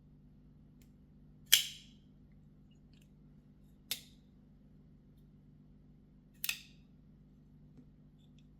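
Three sharp metallic clicks a couple of seconds apart, the loudest about a second and a half in: a liner-lock flipper knife with titanium liners snapping open and shut on its pivot.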